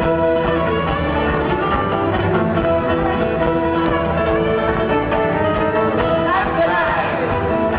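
A folk band playing live at concert volume: fiddle and guitar over a steady, dense band sound.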